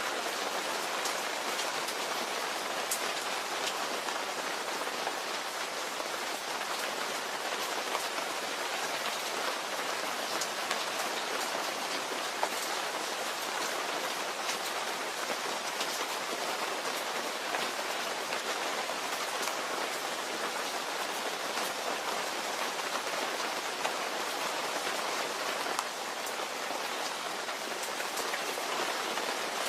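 Steady rainfall: a dense, even hiss of rain with many small drop ticks on a surface.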